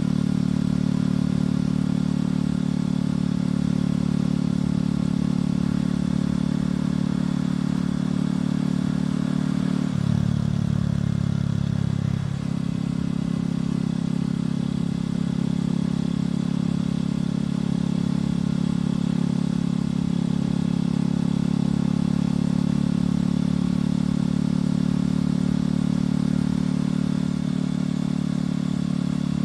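Motorcycle engine and exhaust running steadily at cruising speed, heard from the bike itself. About ten seconds in the engine note drops lower for roughly two seconds, then returns to its earlier pitch.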